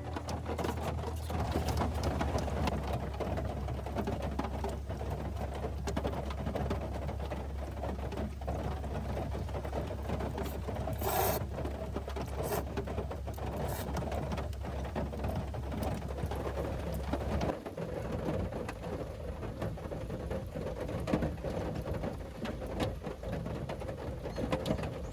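Rain pattering steadily, with a steady low hum underneath that stops about two-thirds of the way through.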